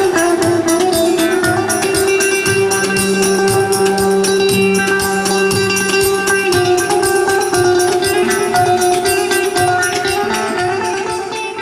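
Buzuq (long-necked Kurdish lute) playing a plucked melody over a steady low drum beat; the music begins to fade out near the end.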